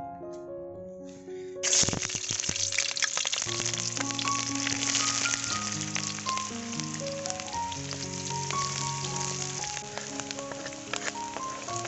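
Chopped onions sizzling and crackling in hot coconut oil in a steel wok. The frying starts suddenly about two seconds in and keeps up steadily. Background music with piano-like notes plays throughout.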